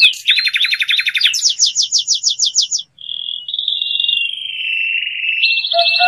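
Birds singing loudly in fast runs of repeated high chirps and trills, then, after a brief break about three seconds in, a long whistled note that slides slowly down.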